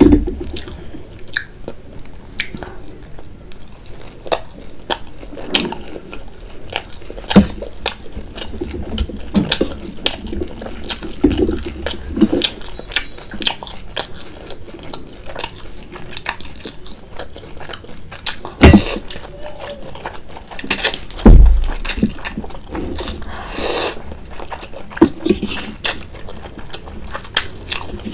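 Close-miked eating sounds: wet chewing and mouth smacks over soupy noodles and fried momos, with a steady run of short clicks and a few louder knocks from the fork and spoon against the dishes.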